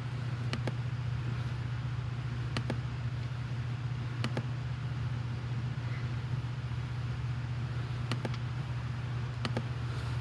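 A steady low machine hum, with five short sharp clicks at irregular gaps.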